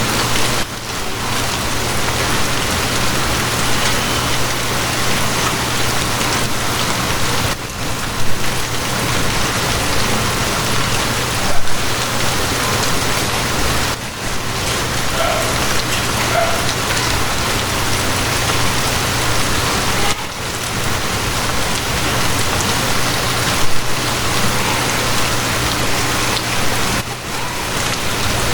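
Steady, heavy rain falling, with a low steady hum beneath it and a few brief, louder splashes.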